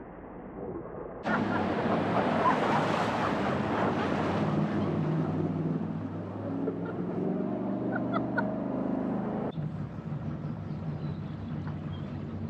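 Jet boat under way: rushing water and wind noise, with the engine's steady drone coming through beneath it. The sound jumps up sharply about a second in and drops suddenly near the end.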